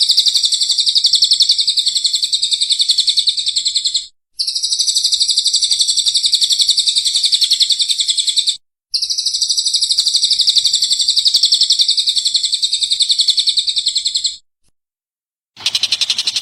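A bird's rapid, high-pitched trill delivered in three long unbroken phrases of four to five seconds each, with brief pauses between them. Near the end a different, harsher and noisier call starts.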